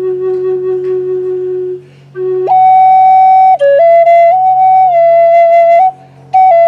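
Native American flute played solo: long held notes stepping between pitches, jumping to a higher note after a short pause for breath about two seconds in, with another short break near the end.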